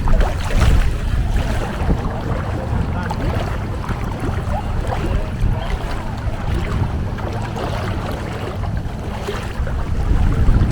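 Longtail boat engine running steadily under way, a dense low rumble mixed with wind and water noise, getting louder near the end.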